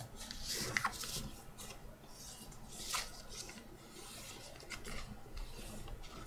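A sheet of printer paper being folded and creased by hand: irregular rubbing and rasping strokes as fingers run along the folds, with a sharper stroke about a second in and another about three seconds in.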